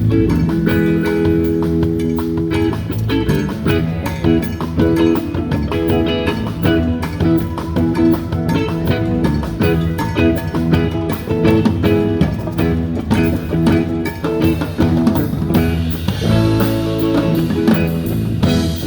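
A band playing, electric guitar over a drum kit and bass.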